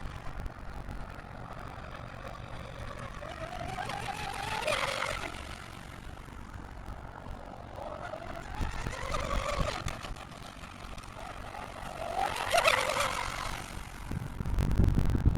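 Electric RC outrigger boat's Leopard 3650 brushless motor and propeller whining at high speed, the whine climbing to a peak and falling away three times as the boat runs back and forth. Wind rumbles on the microphone near the end.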